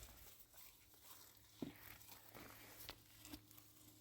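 Near silence: faint low hum with a few faint, scattered clicks and rustles.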